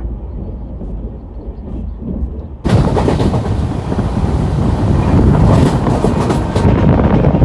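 Moving passenger train heard from aboard: a low running rumble that about three seconds in suddenly becomes much louder and brighter, a loud rush of wheel and wind noise.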